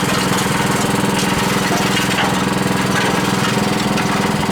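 Small gasoline engine on a concrete mixer running steadily at an even speed.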